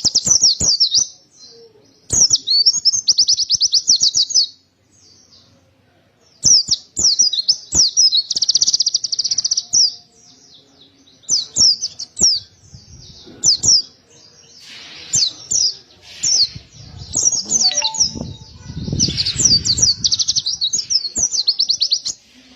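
Pleci (white-eye) singing hard in repeated bursts of rapid, high twittering notes and fast trills, separated by short pauses.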